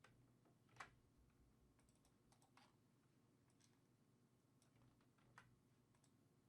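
Near silence with a few faint, sharp clicks from working a computer. The loudest click comes about a second in, and another comes near the end.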